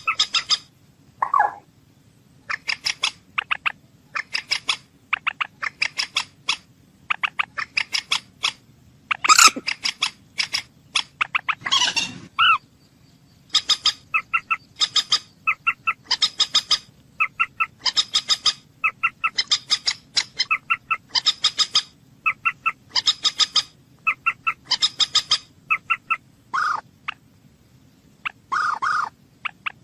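Bird calling in short, rapid, stuttering bursts of high notes, roughly one burst a second, broken by a few lower, harsher calls.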